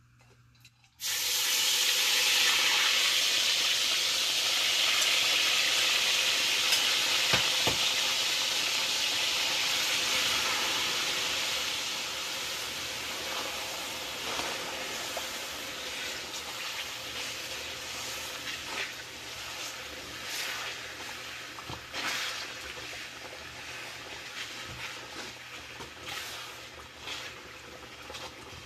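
Semolina hitting a wok of hot liquid: a sudden loud sizzle about a second in that slowly dies down while a metal spatula stirs the mixture, with occasional scrapes and clicks of the spatula against the pan.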